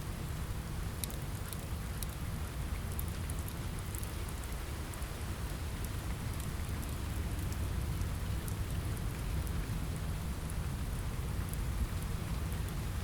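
Steady rain on a window, with a low rumble underneath, mixed with a crackling wood fire: scattered sharp pops and snaps over the rain.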